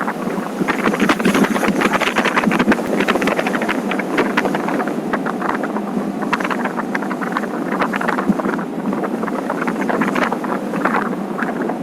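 Motorcycle on the move: wind buffeting the microphone in a steady, crackling rush over the engine and road noise.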